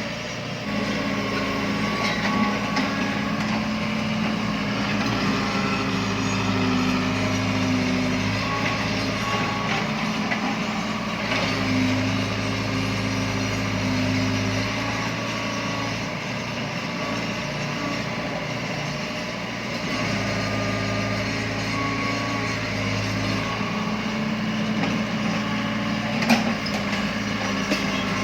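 Excavator's diesel engine running, its note swelling and easing in stretches of a few seconds as it works, with a few knocks and one sharp clank near the end.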